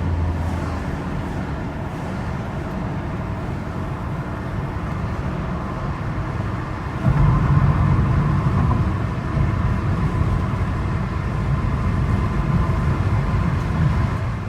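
Car driving, heard from inside the cabin: a steady low road rumble that gets louder about halfway through.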